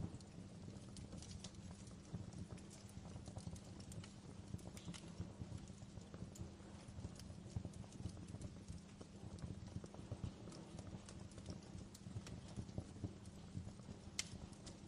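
Fireplace crackling: irregular small pops and snaps over a steady low rumble, with a sharper pop near the end.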